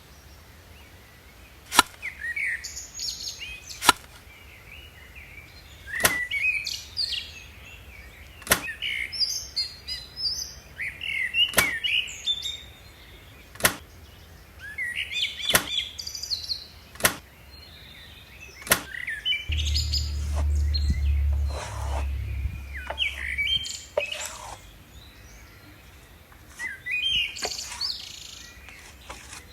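Small birds chirping and singing on and off, with a sharp click or tap roughly every two seconds. A low rumble comes in about two-thirds of the way through and lasts a few seconds.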